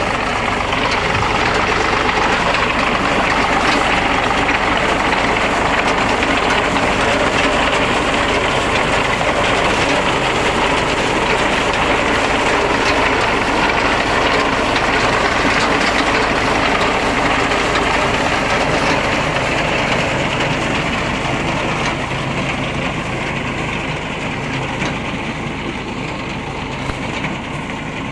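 Tractor-mounted reaper binder running steadily, its engine and machinery working, easing slightly in level over the last few seconds.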